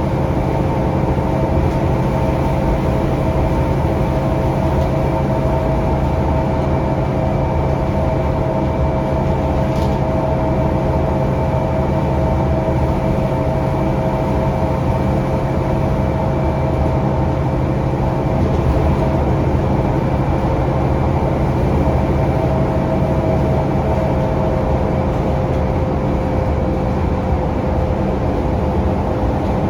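Scania K360UA articulated bus heard from on board while under way: the Scania DC9 diesel and ZF Ecolife automatic gearbox give a steady drone with a faint whine that drifts slightly in pitch, over road rumble.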